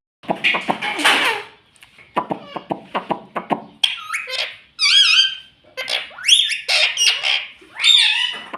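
Pet rose-ringed parakeet vocalizing: a harsh chatter for about a second, then a run of rapid clicks, then a string of shrill calls that glide up and down in pitch.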